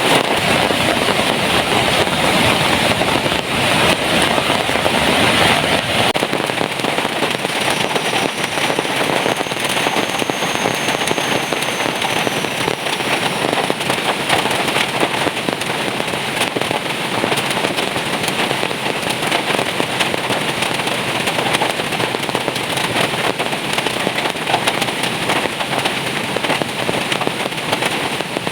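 Heavy rain pouring down, a loud, steady, dense crackle of drops hitting a surface.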